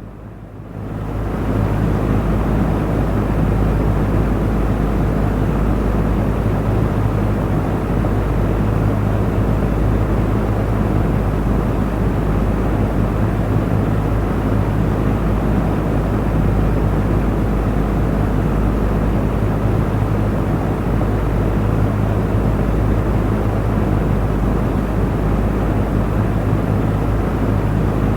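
Electric fan running with a steady low motor hum and the rush of its air. It grows louder over the first second or so, then runs evenly.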